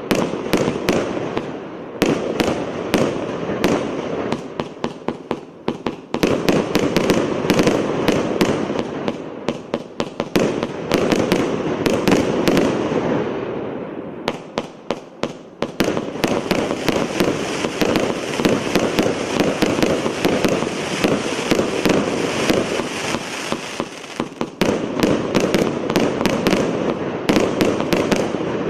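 A multi-shot fireworks cake (battery) firing volley after volley, several sharp reports a second over a continuous crackling hiss. It thins out briefly a few times before picking up again.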